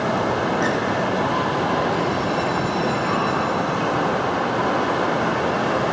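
Steady loud din of a busy indoor amusement park: rides running and crowd noise blending into an even rumble, with no single sound standing out.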